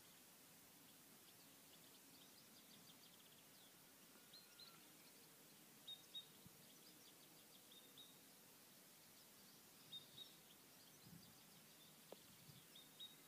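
Near silence: faint birdsong, scattered short high chirps and trills over a low steady hiss.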